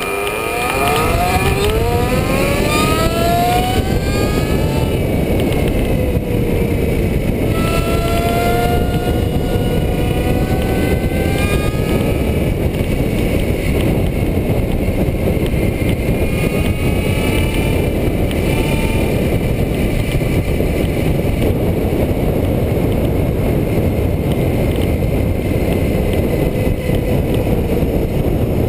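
Heavy wind rush on an electric bicycle's onboard microphone at race speed, with the scratch-built bike's electric motor whining. The whine rises in pitch as the bike accelerates off the start, and rises again about 8 seconds in and about 16 seconds in.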